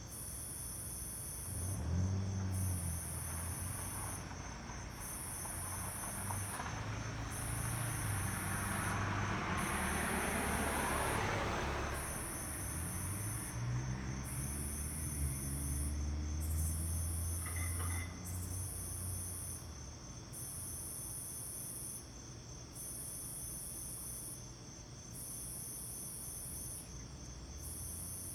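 Insects trilling in short, very high-pitched bursts, about one every two seconds, with a low rumble that swells and fades several times underneath.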